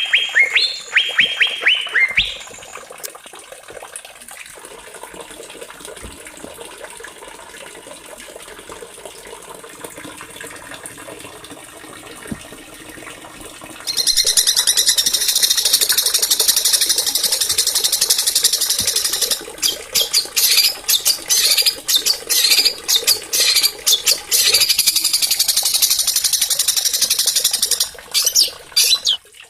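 Small songbirds singing. It opens with rapid repeated falling chirps, then comes a quieter stretch. About halfway through a loud, dense, very high-pitched twittering song starts, broken by short pauses near the end.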